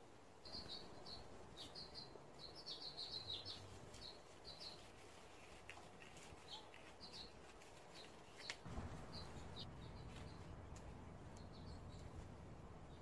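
Faint chirping of small birds in short quick calls, busiest in the first few seconds and scattered after. A single sharp click stands out about two-thirds of the way through, followed by a low rumble.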